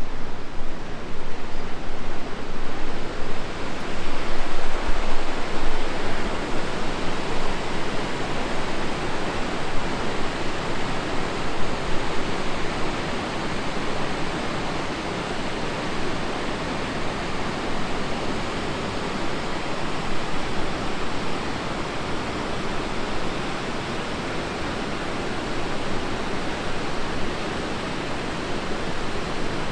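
Steady rushing of a river through a rocky gorge, a continuous wash of water noise, a little louder in the first few seconds.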